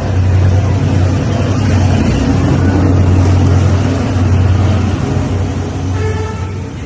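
A diesel train passing close by, its engine drone and rolling rumble loud and steady. A short horn-like tone sounds about six seconds in.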